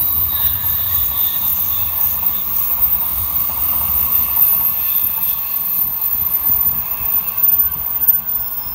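500 series Shinkansen running past, a steady rushing rumble of wheels on rail with faint high whining tones above it, easing off near the end as the train draws away.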